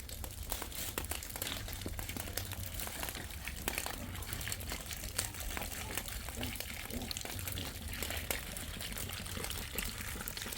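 Steady rain falling: an even hiss dotted with many small, irregular drop ticks.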